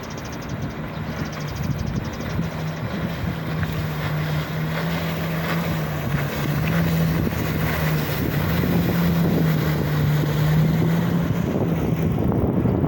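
Jet ski engine running on the river, a steady hum that grows louder as it comes closer, with wind buffeting the microphone.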